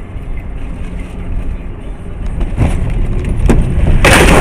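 Car on the move heard through a dashcam: steady road and engine rumble with a few knocks, then a loud, harsh burst of noise near the end.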